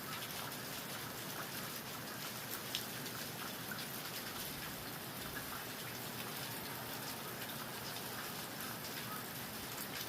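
Steady rain falling, a constant hiss with many individual drops ticking on a surface; one sharper drop hit stands out nearly three seconds in.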